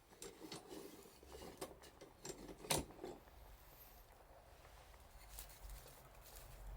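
Wood fire crackling faintly with scattered small pops and one sharp, louder snap about three seconds in; a low rumble rises near the end.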